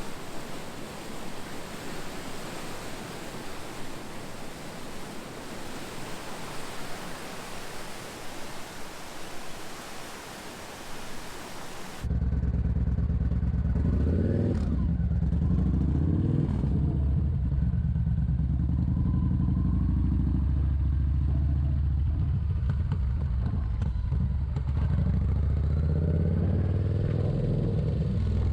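Rushing water of a waterfall, a steady even noise. About twelve seconds in it cuts abruptly to a motorcycle engine running on the road, louder, its pitch shifting a little as the bike rides.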